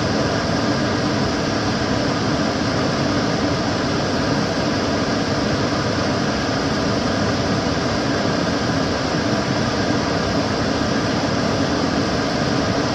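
Kitchen cooker hood extractor fan running steadily: an even rushing air noise with a faint low hum.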